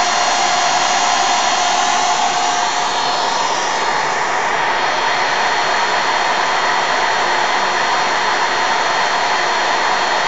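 Small electric motor driving a K'nex model V8 engine, a steady loud whir of the motor and the turning plastic parts. A steady tone in it fades out about three seconds in.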